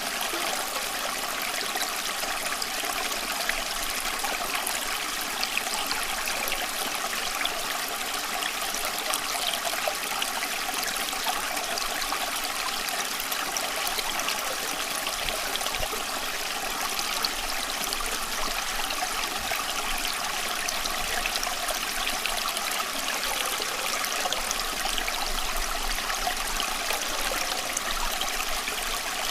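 Flowing stream water running and trickling steadily, with a fine bubbling crackle over it.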